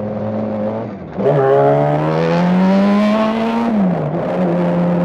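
Motorcycle engine under way: it eases off about a second in, then accelerates with a rising pitch for a couple of seconds, drops in pitch at a gear change, and runs on steadily.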